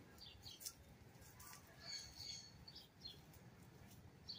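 Faint bird chirps: a few short, high calls scattered over near silence.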